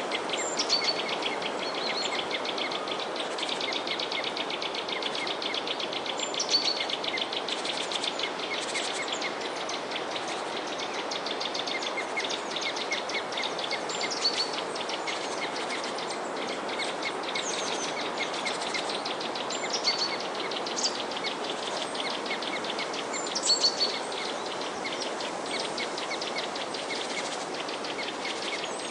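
Many small birds chirping and twittering in dense, rapid high calls, with a few short whistled notes, over a steady rushing background noise.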